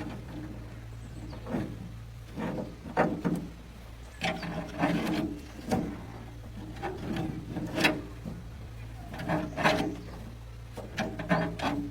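Irregular knocks and scraping of tools and parts being handled during hand repair work on a tractor, over a steady low hum.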